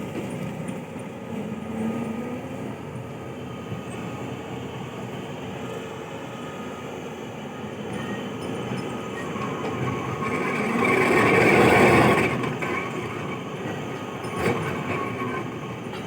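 Heavy mining machinery working: a continuous mechanical rumble and grinding with a faint steady whine. It grows louder to a peak about eleven to twelve seconds in, then eases off.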